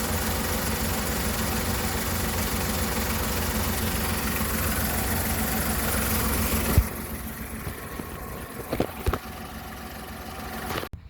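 Car engine idling with a fast, even pulse. About seven seconds in it becomes quieter, and a few short knocks come near the end.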